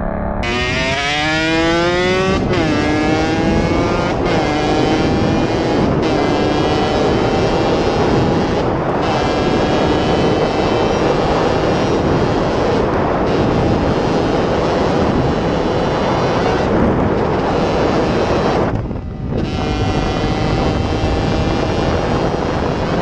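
Motorcycle engine accelerating hard, its pitch climbing and breaking off several times as it shifts up through the gears. It then runs at high, steady revs under heavy wind and road noise, with a brief drop in level near the end.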